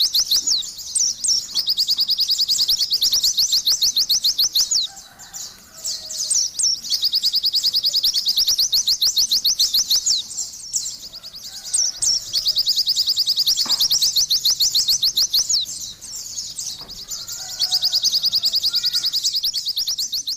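White-eye (pleci) singing long, very rapid, high-pitched trills of chattering notes in four stretches, broken by short pauses in which fainter, lower chirps are heard.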